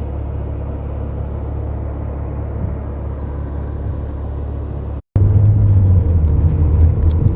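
Car driving: a steady low rumble of engine and road noise, which cuts out for a moment about five seconds in and comes back louder.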